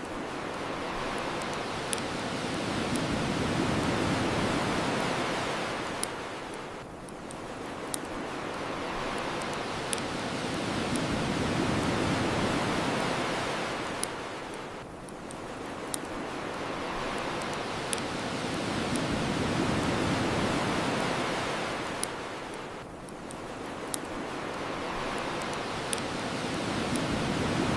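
Ocean waves washing onto a shore in slow swells about every eight seconds, with sharp pops of a crackling bonfire every few seconds.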